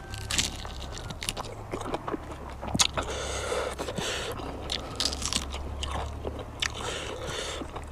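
Close-miked chewing and crunching of food, with many irregular short clicks and smacks, over a low steady hum.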